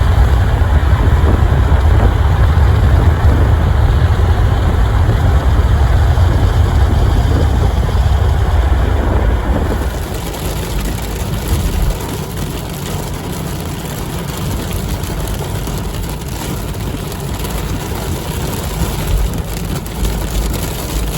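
Steady low rumble of a vehicle's engine and road noise, heard from inside the car. About ten seconds in it drops in level and turns hissier.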